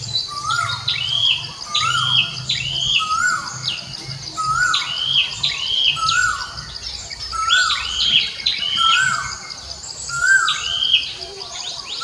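Birds calling over and over, each call a short note that slides downward, repeating about every half second to second, over a steady, high, fine trill.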